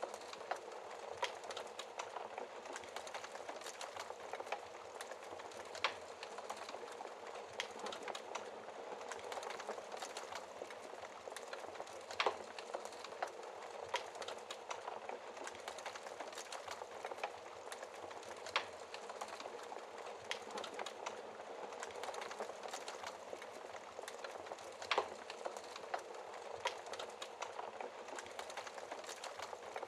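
Wood fire crackling in a fireplace: a steady soft hiss of burning with frequent small crackles and a few louder pops.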